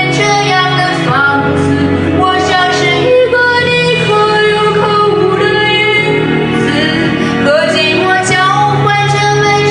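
A woman singing a love song over instrumental backing.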